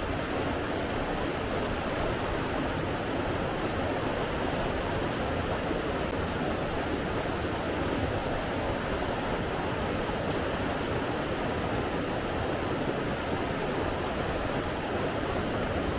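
Steady rush of flowing water, an even unbroken noise without swells or pauses.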